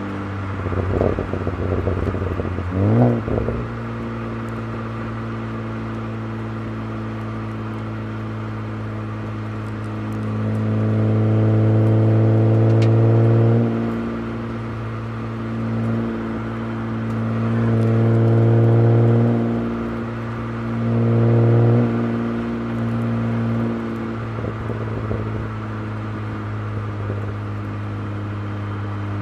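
BMW 135i's N54 twin-turbo inline-six, breathing through a custom exhaust with a Borla ProXS muffler, idling and being revved: a couple of quick blips in the first few seconds, then several held revs of a few seconds each, dropping back to a steady idle between them.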